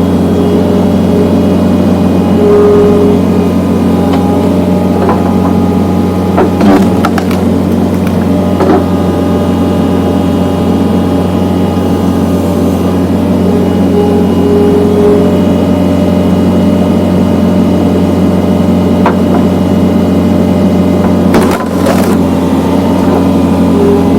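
John Deere skid steer's diesel engine running steadily while powering a hydraulic log splitter. A higher tone comes and goes over the engine, and a few sharp cracks or knocks stand out, two of them close together near the end.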